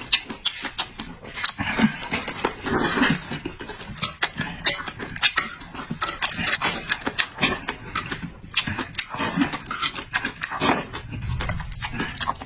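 A person eating noisily close to the microphone: wet chewing and lip-smacking clicks, irregular and continuous, with breaths between bites.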